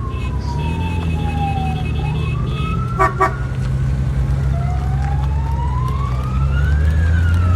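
A siren wailing, sweeping slowly down, up and down again in pitch, over the steady low rumble of motorcycle engines that grows louder near the end. Two short horn beeps sound about three seconds in.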